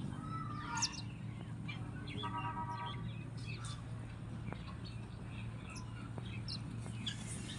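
House sparrows chirping: scattered short, high chirps, with one longer buzzy call a couple of seconds in. A steady low hum runs underneath.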